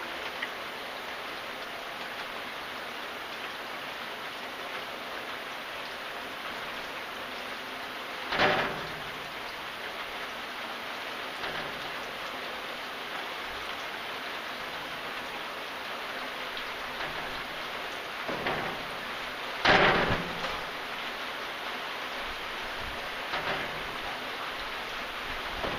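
Steady rain falling, an even hiss of drops. Twice, about eight and twenty seconds in, a brief louder noise rises above it.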